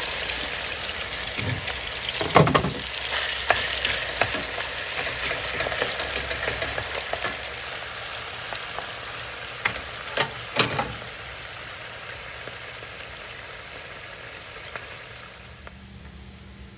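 Marinated chicken pieces frying in hot oil, a steady sizzle that grows gradually quieter, with a few sharp knocks against the pan about two seconds in and again around ten seconds in.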